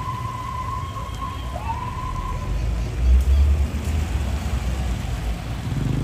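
Large trucks arriving, their engines giving a steady noisy din under a high held tone that is sounded twice, the second time rising into it. A deep low rumble swells about three seconds in and is the loudest part.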